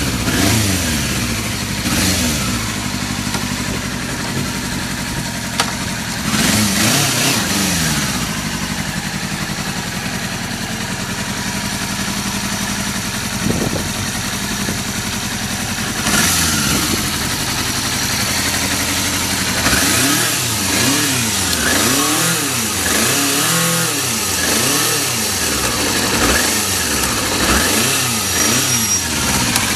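Yamaha FZR400RR's inline-four engine through an aftermarket Daishin exhaust, idling and being revved with throttle blips. It revs a couple of times early on, settles into a steadier idle, and then gives a quick run of repeated revs over the last third.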